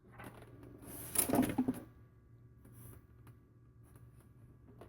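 Handling noise as eggs are picked up and moved for candling: a brief rustle in the first two seconds, then scattered light clicks and taps, over a faint steady hum.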